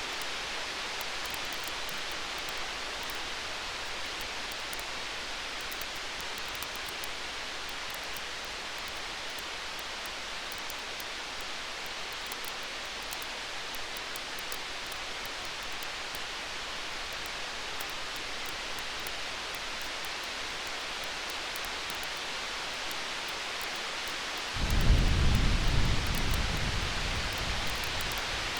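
A steady hiss with light campfire crackling. About 24 seconds in, a low rumble of distant thunder swells suddenly and fades away over a few seconds.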